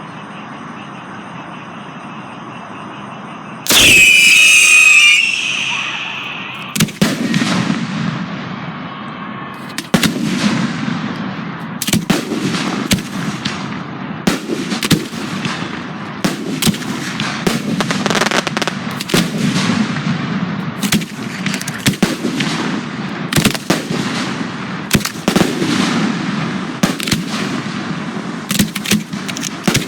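1.3G display fireworks (aerial shells and cakes) going off. A few seconds of steady low hum give way, about four seconds in, to a loud whistling shot, followed by an unbroken string of sharp bangs, several a second.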